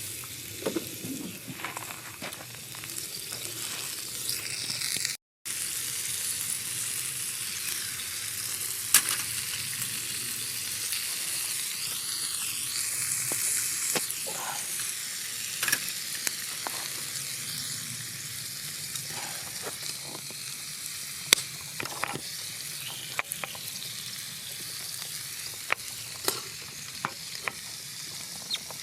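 Steak sizzling on an iron griddle over a campfire: a steady hiss with sharp pops and crackles here and there. The sound cuts out for a moment about five seconds in.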